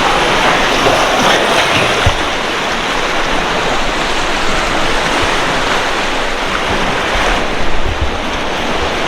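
Dihing river water rushing in a fast current, a steady even hiss of moving water. A few brief low thumps come about two seconds in and again near the end.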